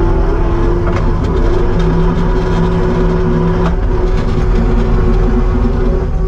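Kubota SVL75-2 skid steer's diesel engine running steadily, with an added lower hum for about two seconds in the middle.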